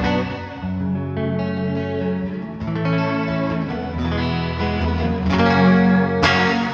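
Electric guitar chords played through a Big Ear Pedals Albie multi-effect set full wet: lush, sustained, shifting chords washed in a chorus-like effect that sounds like a reverse reverb with some pitch modulation. A fresh strum comes in near the end.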